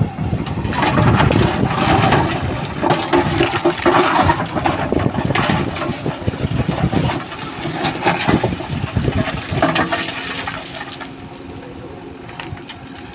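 Loads of stones being dumped, pouring and clattering in a long irregular rush with a diesel engine running underneath, easing off near the end.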